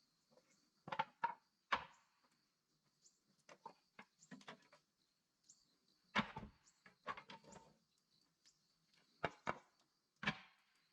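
Irregular sharp wooden knocks and chops, some single and some in quick pairs or small groups, over a faint steady high hiss.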